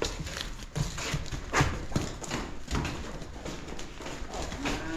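Steers' hooves clattering in irregular knocks as the cattle are moved along. One steer starts a long moo near the end.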